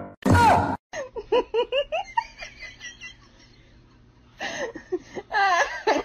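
A person laughing in quick repeated 'ha-ha' bursts that fade away within about two seconds, then a second bout of laughter starting about four and a half seconds in. It opens with a brief loud rush of noise.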